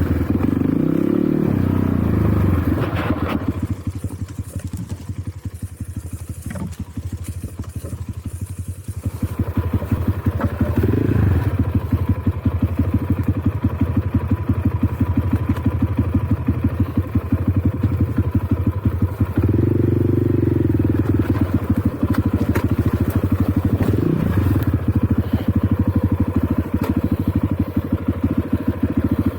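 Enduro motorcycle engine running on the move, its revs rising and falling with the throttle. It eases off for a few seconds early on, then pulls harder again with short rev swells.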